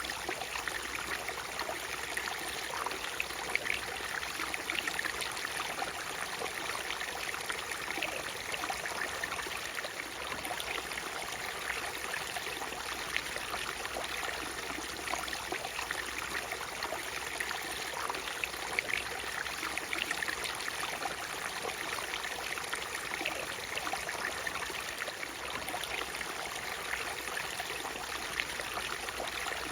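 Natural waterfall: a steady rush of falling water, flecked with small splashes and trickles.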